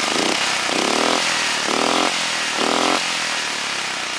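Small single-cylinder Honda race engine, built up from 13 to 20 horsepower with no governor, blipped three times about a second apart, its pitch rising on each rev over the running note. It runs through a muffler that has had a screwdriver run through it to open it up.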